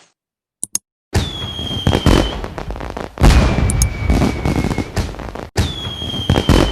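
Fireworks sound effect: three bursts of loud crackling, each with a thin whistle that slides slightly down in pitch, preceded by two brief clicks.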